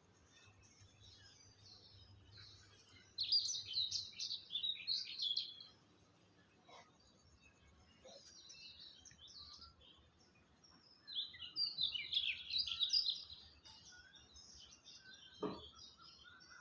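Birds chirping and twittering in quick, busy bursts, one about three seconds in and a longer one about eleven seconds in, with fainter calls between. A short knock comes near the end.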